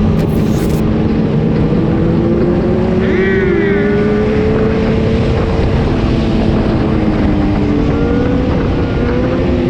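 Vehicle engines running over a steady rush of road and wind noise, their pitch drifting slowly up and down with the revs. A short, wavering higher tone comes in about three seconds in.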